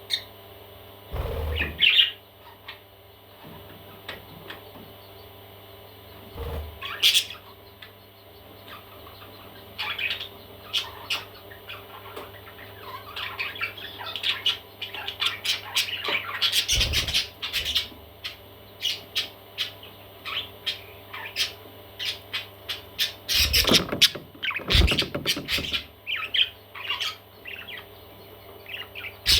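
Baby parrots chirping and squawking in many short, rapid calls that grow busier towards the middle, with a few soft thumps in between.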